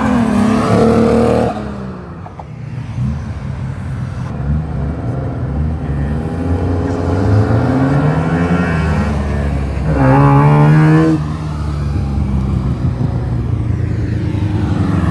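Car engines revving and accelerating past one after another, the engine note rising and falling. The loudest passes come near the start and about ten seconds in.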